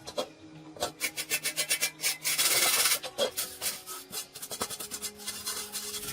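Quick rasping strokes, several a second, from hand scraping or filing work, with a denser continuous scrape lasting under a second about two seconds in.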